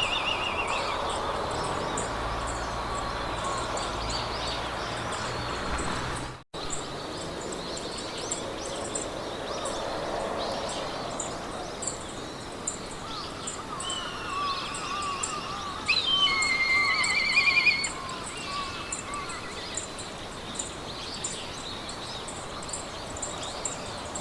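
Meadow ambience: birds singing over a soft wind hiss, with a high chirp repeating about twice a second. The loudest bird trills come about sixteen to eighteen seconds in. The sound cuts out for an instant about six and a half seconds in.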